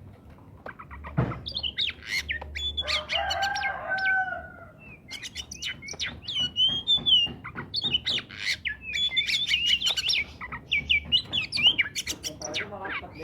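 Oriental magpie-robin (kacer) singing vigorously: a fast, varied run of high whistles and chirps. There is a knock about a second in, and a lower, drawn-out call around three to four seconds in.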